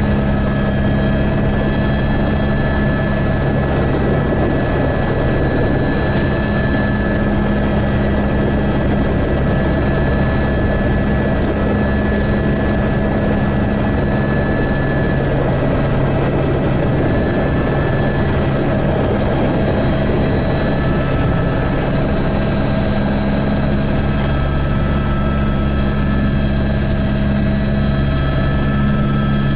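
Helicopter in flight, heard from inside the cabin: a loud, steady drone of engine and rotors with a constant hum.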